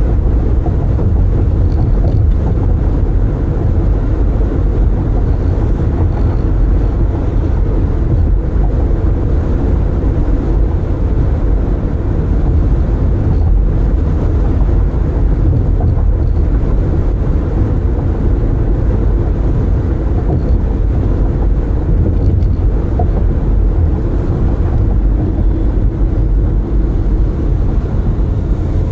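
Road noise heard from inside a moving car with its windows open: a steady low rumble of tyres, engine and air.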